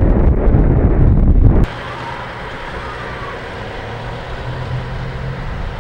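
Loud wind buffeting on the microphone that cuts off suddenly about a second and a half in, followed by the steady running of the M923 A1 truck's Cummins NHC-250 diesel engine, a low hum that rises slightly near the end.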